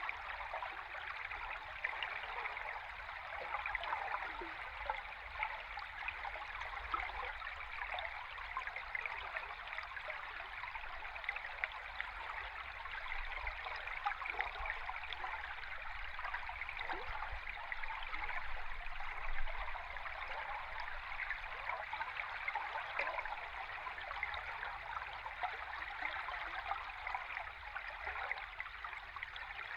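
Running river water heard from underwater: a steady rush of water full of fine bubbling ticks, over a low rumble.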